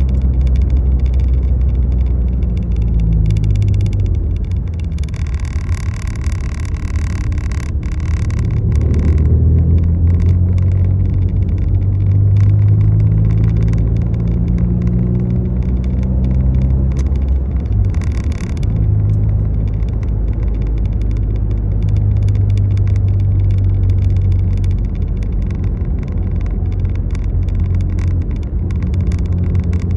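Motor vehicle engine running with a steady low drone that slowly rises and falls in pitch.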